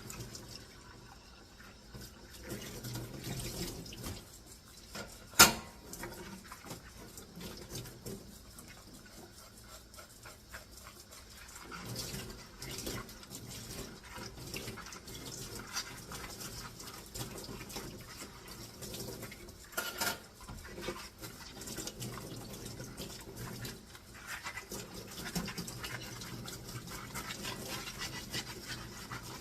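Dishes being washed by hand at a sink: scrubbing and water sounds with small clatters of dishware, and a sharp clink about five seconds in and another around twenty seconds.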